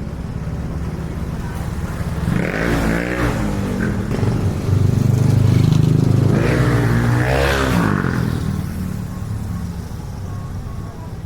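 Road traffic: motor vehicles running by. Engine sound grows louder and shifts in pitch about two seconds in, and again about six seconds in.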